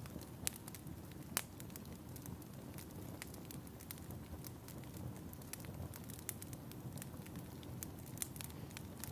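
Wood fire in a fireplace crackling: a steady low rush of burning with frequent sharp pops and snaps, a louder pop about a second and a half in.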